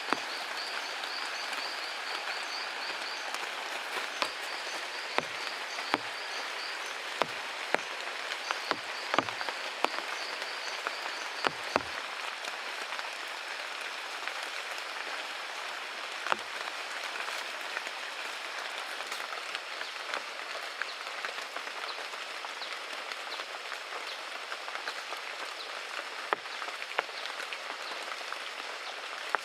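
Steady outdoor hiss with a fast, high-pitched pulsing trill, heard twice in the first half. Scattered sharp knocks and taps fall between about four and twelve seconds in.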